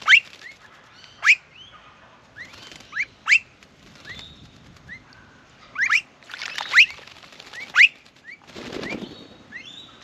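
Short, sharp rising whistled bird calls, repeated many times, with two bursts of splashing and wing flapping from a blue-faced honeyeater bathing in a shallow water bowl: one about six seconds in and one near the end.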